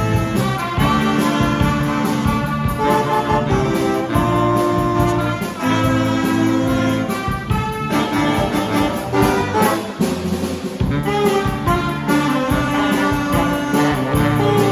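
A jazz band playing, with trumpets, trombones and saxophones carrying held, shifting chords.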